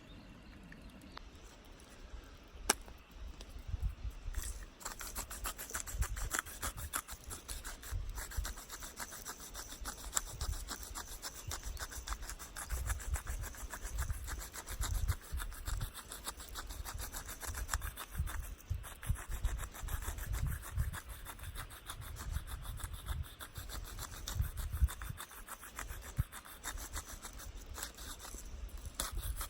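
Wood being sawn by hand, a continuous rasping of saw strokes, with a single sharp click about three seconds in before the sawing starts.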